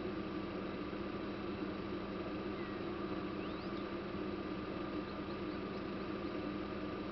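Faint, thin high notes of a European robin: a couple of rising notes a few seconds in, then a quick run of short notes a second or two later. Under them runs a steady hum and hiss that is louder than the bird.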